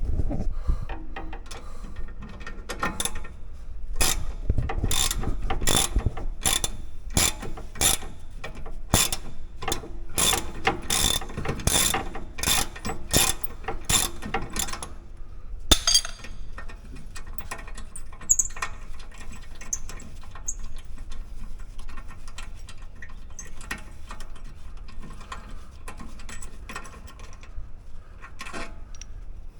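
Socket ratchet clicking in steady strokes, about two clicks a second, as a 14mm brake caliper bolt that has just been broken loose is wound out. A single sharp click about sixteen seconds in, then fainter, irregular clicking.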